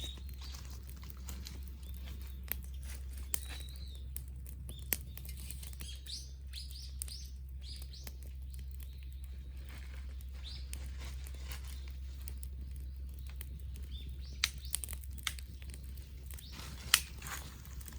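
Wood campfire crackling, with scattered sharp pops from the burning wood. A bird chirps a quick series of short calls about six to eight seconds in, over a steady low rumble.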